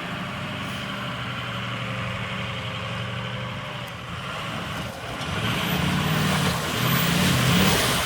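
Truck engine running steadily, then revving up and down from about five seconds in and getting louder as it powers through the mud.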